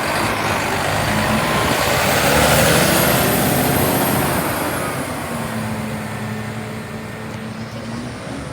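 Republic Services garbage truck driving past, its engine and road noise growing louder to a peak a few seconds in, then fading as it moves away.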